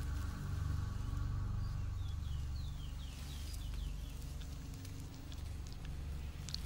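Jungle ambience: a bird gives a quick run of about eight short falling whistled notes about two seconds in, over a steady low rumble and faint insect sound, with a few sharp ticks near the end.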